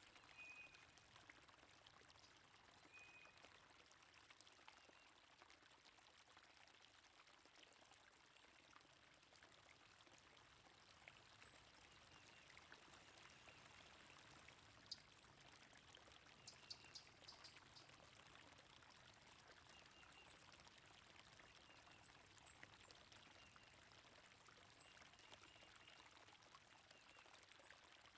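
Faint steady rush of flowing stream water, with scattered brief bird chirps over it.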